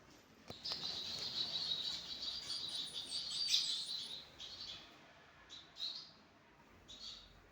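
Caged zebra finches and Bengalese finches chirping: a dense run of twittering song lasting about three and a half seconds, then a few scattered single calls.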